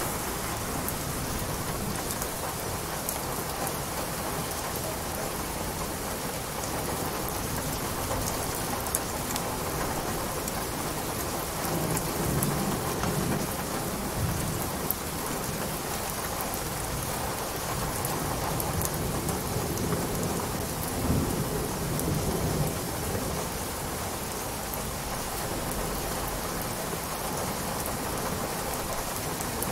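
Steady rain falling, with scattered sharp drop taps. Low rolls of thunder swell up about twelve seconds in and again about twenty seconds in.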